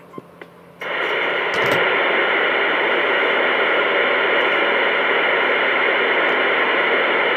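Two-way radio receiver static: a loud, steady hiss that switches on suddenly about a second in and cuts off suddenly near the end, with no voice in it.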